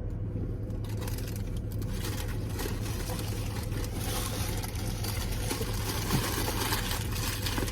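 Steady low hum and hiss of a car cabin with the engine running.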